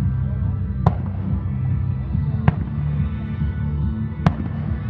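Fireworks going off over music: three sharp bangs, spaced about a second and a half apart, against steady music with a deep bass.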